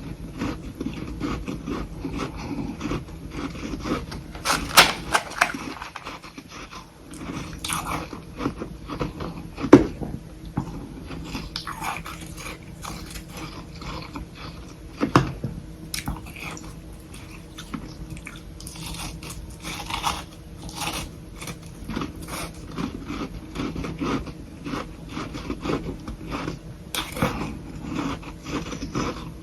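Close-miked biting and chewing of soft humidifier-grown freezer frost sticks: a dense run of crackling crunches, with a few louder snaps.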